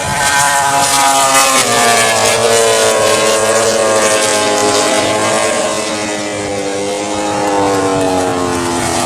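Racing motorcycles' engines running at high revs on the circuit, their pitch falling slowly over several seconds as they pass.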